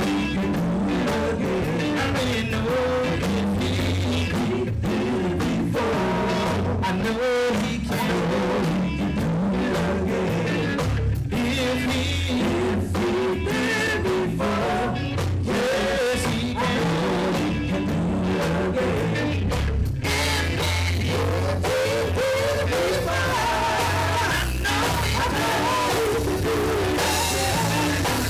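Live gospel music: a band with guitar and drums plays under a group's singing, at a steady loud level throughout.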